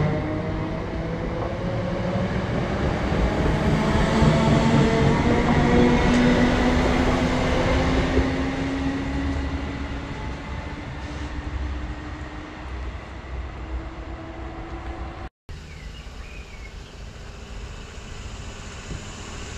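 ScotRail electric multiple unit pulling away from the platform: rumble of wheels on the rails and a motor whine rising in pitch, both fading as it draws off. After a brief dropout about fifteen seconds in, a quieter rumble of another electric train running alongside the platform.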